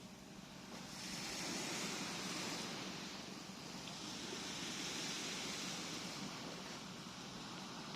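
Gentle sea waves washing onto a beach: a steady hiss of surf that swells and eases every few seconds, growing louder about a second in.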